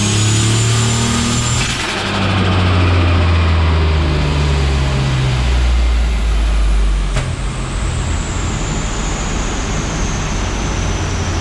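Turbocharged LS V8 car engine running under load, its note shifting about two seconds in; after a sharp click about seven seconds in, the note drops and it runs on more steadily.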